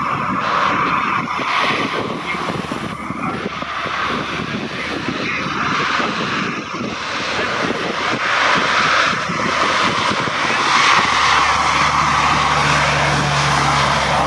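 Aircraft engine running loudly and steadily, with a low steady hum joining in about eleven seconds in.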